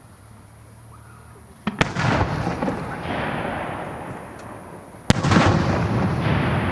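Aerial firework shells bursting: a sharp bang a little under two seconds in, followed by a long rumbling tail, then a second sharp bang about five seconds in with another long tail.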